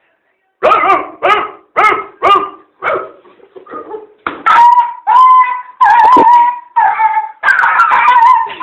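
A person imitating a dog: a quick run of short barks, then long wavering whines and howls held on one pitch.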